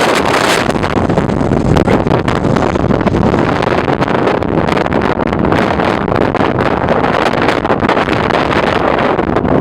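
Wind buffeting the microphone, a loud, steady, gusting rush.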